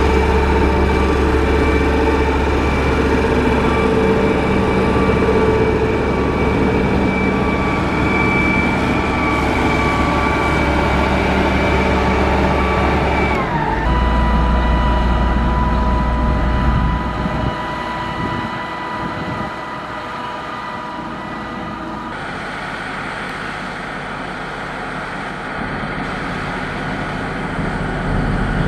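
Heavy construction machine's diesel engine running steadily, with a low hum and a high whine. About halfway through the whine slides down in pitch. A few seconds later the sound gets quieter, then it rises again near the end.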